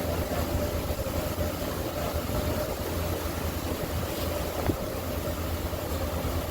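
Ferry boat's outboard motor running at a steady cruise, with wind and water rushing past, and a steady hum.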